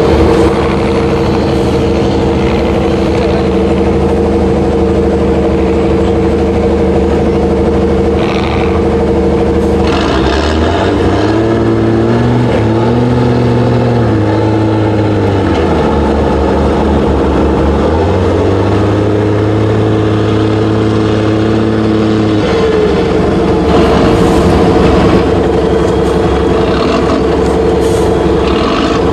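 Iveco trial truck's diesel engine running under load. About a third of the way in it revs up, dips and picks up again, then drops back to a steady note about three-quarters of the way through. A couple of brief hisses come just before the first rise.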